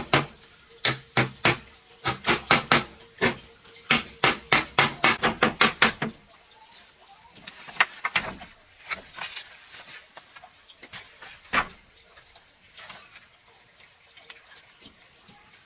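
A fast run of sharp knocks on wood, about three to four a second, for the first six seconds, then scattered single knocks, one loud knock about eleven and a half seconds in.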